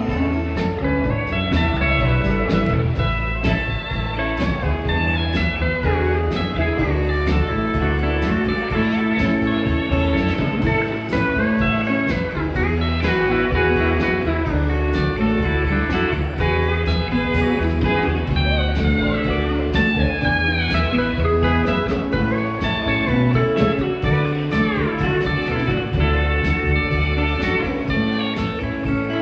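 A live band playing an instrumental break of a country-rock song: guitar lead over bass, with gliding notes that slide between pitches in the second half, like a slide or steel guitar.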